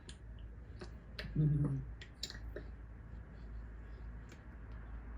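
Scattered light clicks and taps at irregular intervals, with a brief voice sound about a second and a half in, over a steady low hum.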